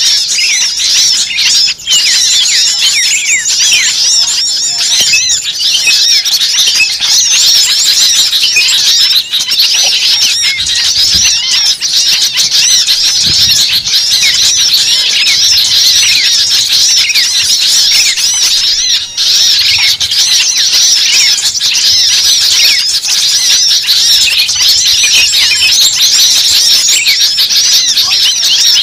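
A dense flock of birds chirping and squawking all at once, many short overlapping calls making a continuous high chatter.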